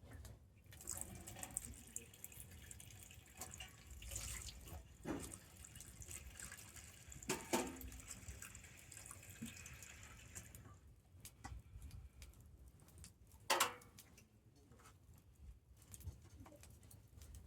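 Wood campfire crackling, with a steady hiss from the burning wood that stops about ten seconds in. Sharp pops stand out, the loudest a pair about seven seconds in and one near the end.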